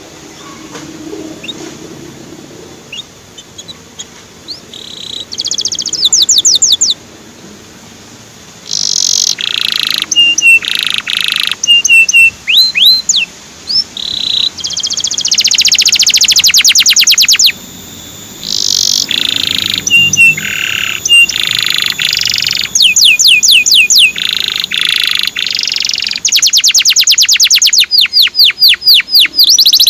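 Male canary singing: fast trills of rapidly repeated high notes, quick rising chirps and harsh buzzy notes, faint and sparse at first and growing into continuous song from about six seconds in.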